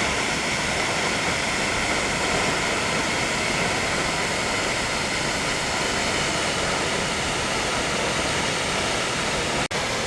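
Steady rush of falling water from a waterfall, an even unbroken roar, with a momentary dropout near the end.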